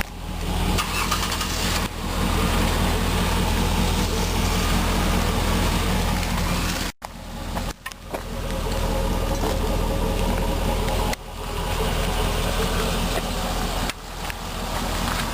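Steady idle of a 2003 GMC Sierra 2500 HD's 6.0-litre Vortec V8, dropping out abruptly for an instant about seven seconds in.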